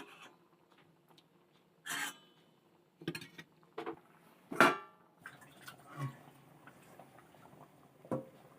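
Dishes and utensils clinking and knocking: about half a dozen separate clinks, the loudest about four and a half seconds in with a short ring.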